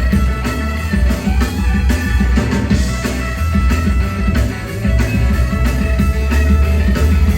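Live rock band playing: sustained electric guitar notes over a heavy bass line and a steady drum kit beat.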